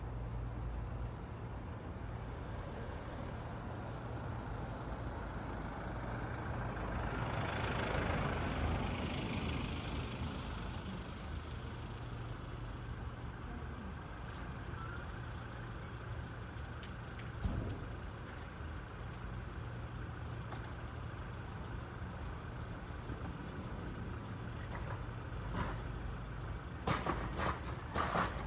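City road traffic at night: a steady low rumble of engines, with one vehicle passing close about a third of the way in, its tyre hiss swelling and fading. A single knock comes past the middle, and a run of sharp clicks and knocks comes near the end.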